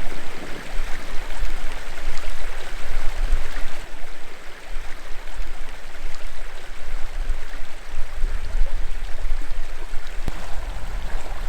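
Steady rush of running water, with an uneven low rumble of wind on the microphone underneath.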